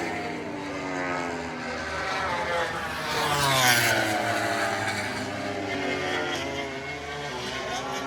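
MotoGP racing motorcycles' four-cylinder engines screaming past on track, their notes rising and falling as they accelerate and shift. The loudest bike goes by about three and a half seconds in, its pitch dropping as it passes.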